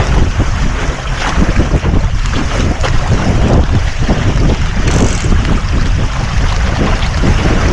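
Wind buffeting the microphone in uneven gusts over the rush of water along a sailboat's hull while under sail.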